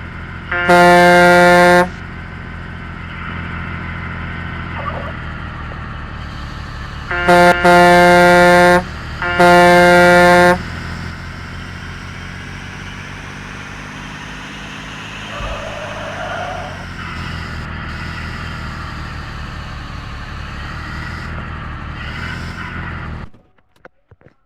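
Truck horn sounding four loud blasts: one about a second in, then a short toot and two longer blasts around seven to ten seconds in, each a single steady chord. A diesel truck engine runs steadily underneath until the sound cuts off near the end.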